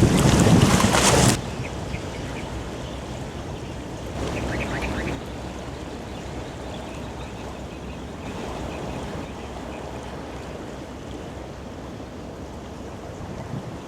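Wind buffeting the microphone, which cuts off abruptly about a second in, leaving a quieter steady low rumble of river and ship ambience. About four seconds in, a brief burst of high chirping rises over it.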